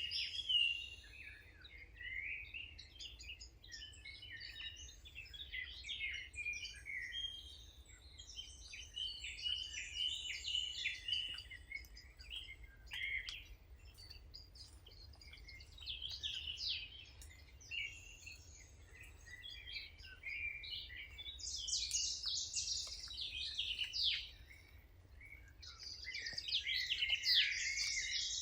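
A chorus of several small birds singing and chirping, with quick overlapping twitters and trills that thicken toward the end. A faint steady low hum runs underneath.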